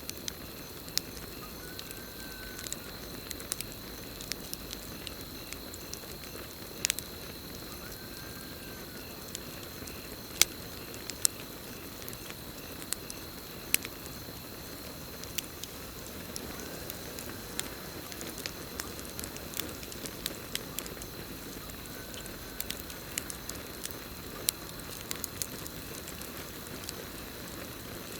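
Campfire crackling, with sharp pops scattered irregularly over a steady low rush of burning wood, under a continuous high trill of crickets. A faint short rising-and-falling call comes four times.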